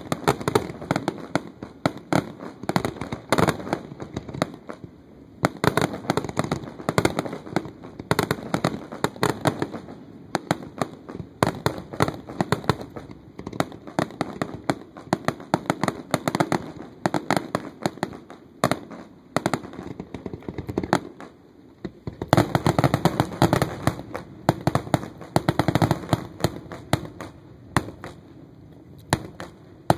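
Fireworks going off in dense, rapid strings of pops and crackles. They ease briefly a little past two-thirds of the way through, come back heavy, then thin out near the end.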